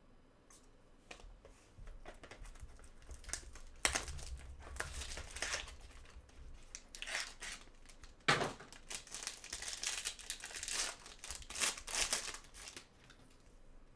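Foil trading-card pack wrapper crinkling and being torn open, in two bouts of crackly rustling, the second one longer.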